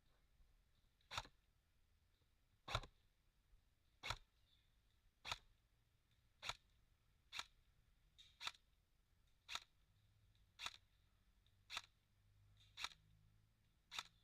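A sharp click repeating at a steady pace, about one a second, a dozen times in a row.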